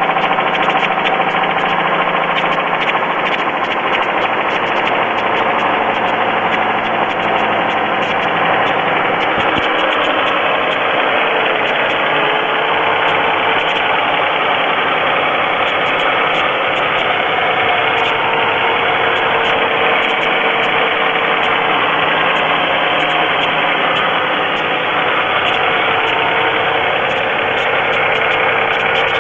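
2002 Pontiac Grand Am's 3.4-litre GM V6 idling just after start-up, with a rapid ticking knock running over the idle. The owner wonders whether the knock is piston slap.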